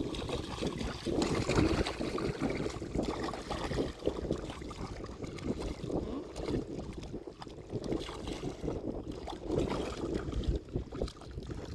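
Shallow seawater sloshing and splashing unevenly as a dog wades through it, with wind buffeting the microphone.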